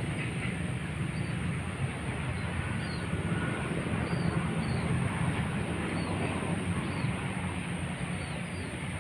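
Open-air ambience: a steady low rumble with short, high bird chirps repeating every second or so, and a thin steady high whine.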